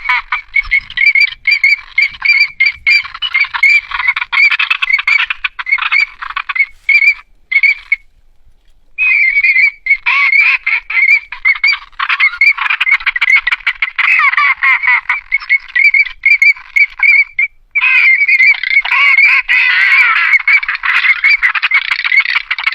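A loud, dense chorus of many high chirping animal calls overlapping without pause. It cuts out abruptly for about a second roughly a third of the way in, and briefly again about three quarters of the way through.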